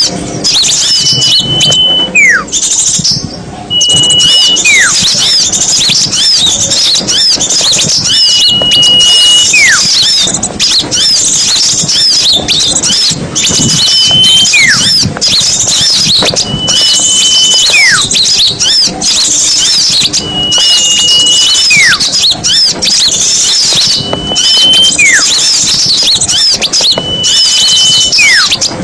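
A bird-trapping lure recording of a flock of small songbirds chattering densely, with high rapid chirps throughout. Through the chatter one call repeats every two to three seconds: a short held whistle, then a quick falling whistle.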